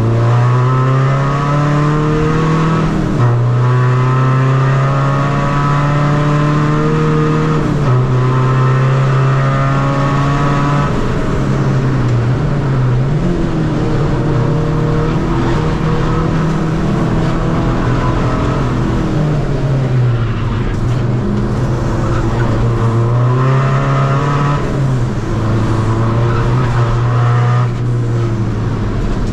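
Tuned four-cylinder 2.0 common-rail diesel engine of a Seat Ibiza FR driven hard on track: the revs climb through each gear and drop sharply at the upshifts, about three and eight seconds in, then ease off and build again several times as the car lifts and accelerates.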